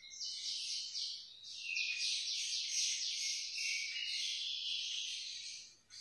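High-pitched chirping bird song: quick repeated notes, about four a second, dropping out just before the end.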